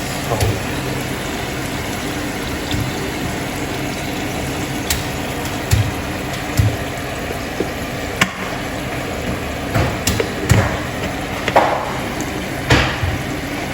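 Food cooking in a pan or pot on the stove: a steady hiss, with a metal utensil knocking and scraping against the pan about nine times.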